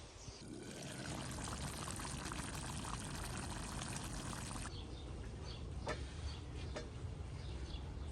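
Liquid being poured in a steady stream for about four seconds, stopping abruptly. Faint birdsong and a couple of small clicks follow.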